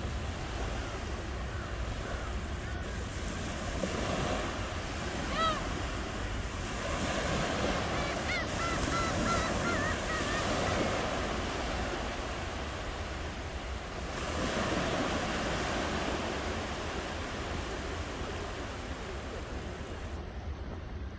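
Ocean waves washing onto a shore, swelling and easing in several surges, with a bird calling briefly about five seconds in and then a few quick calls a little later.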